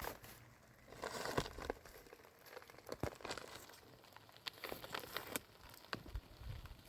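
Plastic bags crinkling irregularly as they are handled, with scattered sharp crackles.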